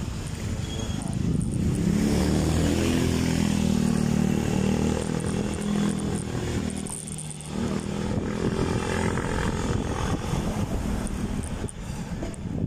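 A motor vehicle's engine running steadily, loudest through the first half, with a brief dip about seven seconds in before it carries on more quietly.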